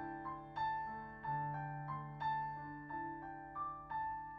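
Piano playing a slow instrumental phrase between sung lines, single notes and chords struck about every two-thirds of a second, each ringing and fading.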